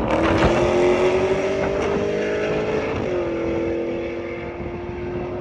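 Cars racing from a roll. An engine under full throttle climbs steadily in pitch, drops sharply about three seconds in as it shifts up, then holds a steady note as it fades.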